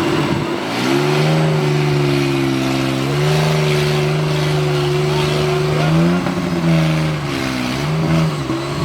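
Off-road 4x4's engine revving hard under load. The revs rise about a second in and are held high, then drop and pick up again twice near the end.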